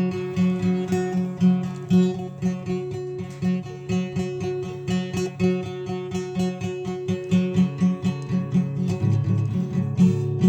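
Acoustic guitar playing a repeating picked pattern of notes, with lower bass notes joining about nine seconds in.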